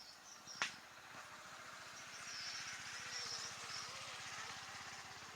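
Faint high, short bird chirps in woodland over a rushing background noise that swells for a few seconds and then fades. A single sharp click comes just under a second in.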